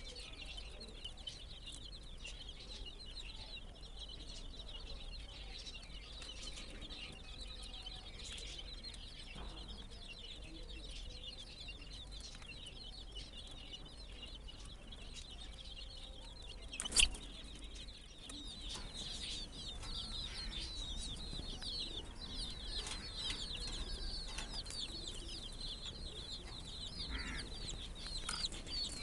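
A flock of baby chicks peeping constantly, many short high chirps overlapping, growing somewhat louder in the second half. A single sharp knock sounds a little past halfway.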